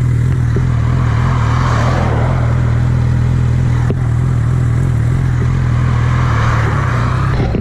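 Suzuki GSX650F's inline-four engine running at a steady pitch on the move, with a rushing wind noise that swells twice.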